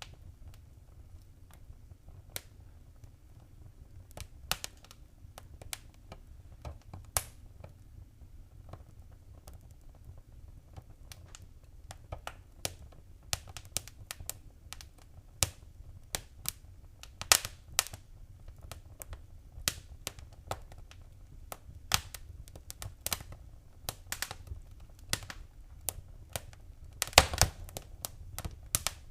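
Wood fire burning, with irregular sharp crackles and pops over a low steady rumble; the crackles grow more frequent in the second half, with a quick cluster of pops a few seconds before the end.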